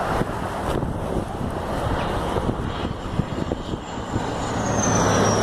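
Canadair CT-114 Tutor jet flying low overhead on its landing approach: steady jet noise that grows louder toward the end, with a high whine falling in pitch as it passes.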